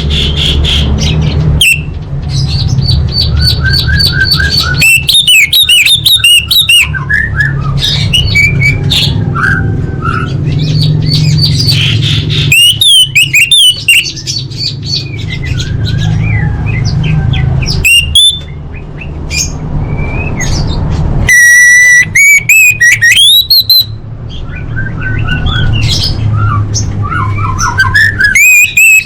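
Female orange-headed thrush calling: a busy, unbroken run of chirps, whistled notes and rapid trills, with a longer held whistle about two-thirds of the way through, over a steady low hum. These are female calls used as a lure to set a silent male singing.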